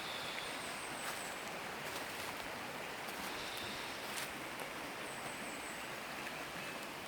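Forest ambience: a steady hiss with scattered light clicks. Two short, high trilling calls come near the start and again about five seconds in.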